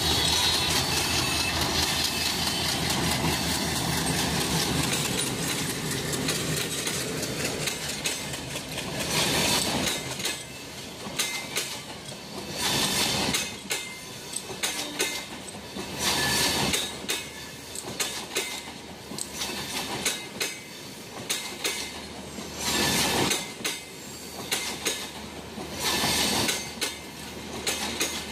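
Diesel locomotive hauling a passenger train past at close range, its engine running for the first several seconds. Then the coaches roll by with a repeated clickety-clack of wheels over rail joints, a loud clatter every two to three seconds.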